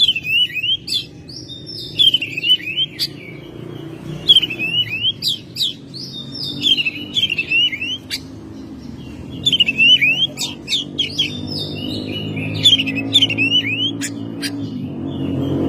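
Oriental magpie-robin singing in quick repeated phrases of sweeping whistles mixed with sharp clicky notes, a short pause between phrases. A low steady background sound rises in level near the end.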